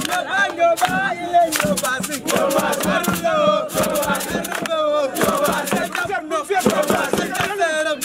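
A group of voices chanting and singing together, crowd-style, with sharp percussive hits scattered through it.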